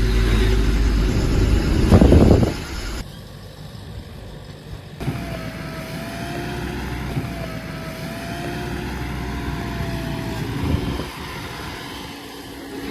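JCB backhoe loader's diesel engine running, with a louder burst of noise about two seconds in and a steady thin whine through the middle. The sound changes abruptly twice early on, as if clips are spliced together.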